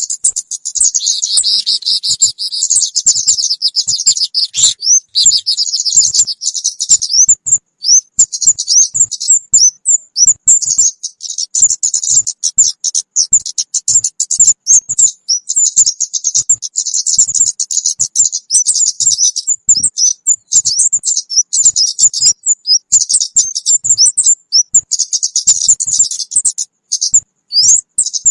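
Recorded lure call of kemade birds: rapid, high-pitched chirping and twittering trills. Dense runs of chirps alternate with short gaps of single sharp chirps.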